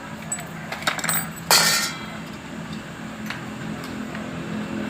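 Metal tools clinking and tapping during motorcycle servicing, with one short loud rush of noise about a second and a half in, over a low steady hum.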